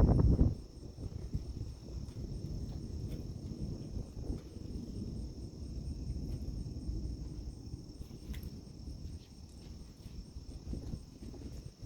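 Insects, likely crickets, trilling steadily in a high, even band. Under them is a low rumble, loudest right at the start and falling away within about half a second.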